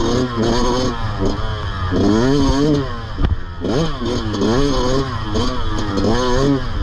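Motorcycle engine being revved up and down over and over, the pitch climbing and dropping about every second, with a short drop back near idle about three seconds in.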